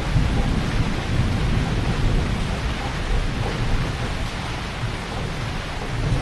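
Heavy rain falling steadily, with a low rumble of thunder underneath that eases off about halfway through.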